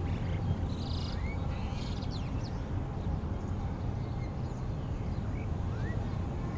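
Birds calling: scattered short, rising chirps and a few brief higher calls, over a steady low rumble.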